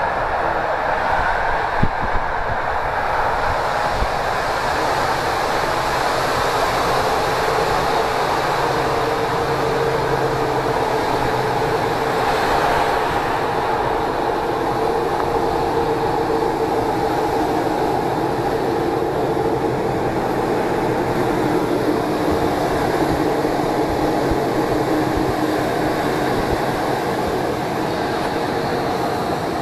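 Passenger train running along the line, heard from inside the carriage: a steady rolling rumble of wheels on rails with a constant hum, and a couple of brief clicks about two seconds in.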